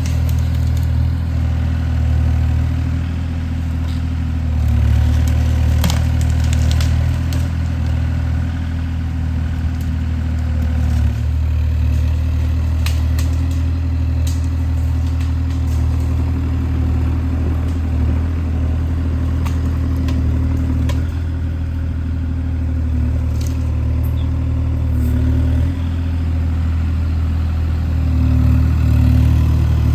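Kubota KX040 mini excavator's diesel engine running steadily under light load, with scattered sharp knocks and clanks.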